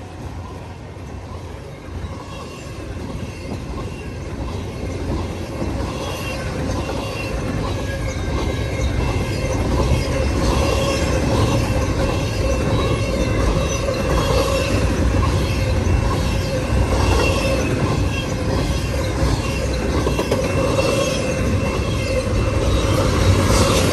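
CN intermodal freight train rolling past at track side. It grows louder over the first ten seconds or so and then runs steadily, a heavy rumble with rail cars clicking over the rail joints and a thin steady wheel squeal.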